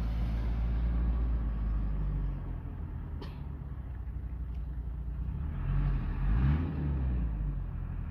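Tractor engine running steadily, with a sharp click about three seconds in. Around six seconds in the engine pitch rises and falls, as it is revved and eased off.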